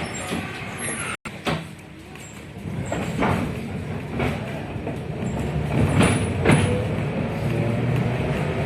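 Inside a moving 71-619KT tram car: wheels knock over rail joints several times, and from about halfway a whine from the KR-252 traction motors rises slowly in pitch as the tram picks up speed.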